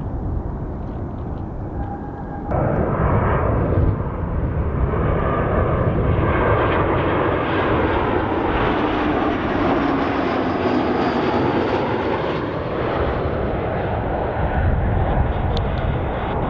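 Jet airliner passing close on its landing approach: the engine noise comes in abruptly a couple of seconds in, swells to its loudest about ten seconds in, then eases slightly as it goes by.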